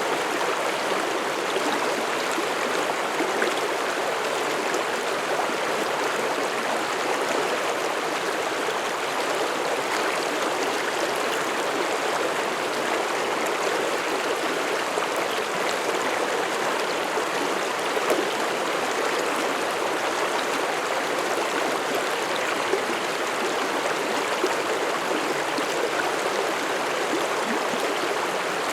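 Mountain stream flowing steadily over rocks, a continuous babbling rush of water with occasional small splashes.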